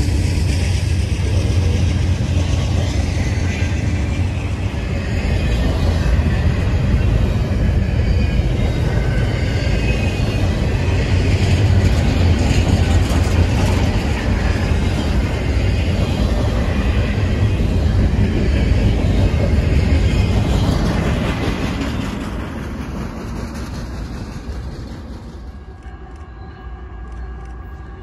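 Double-stack container well cars of a CN intermodal freight train rolling past: steady loud wheel-on-rail noise that fades away over the last several seconds as the end of the train goes by.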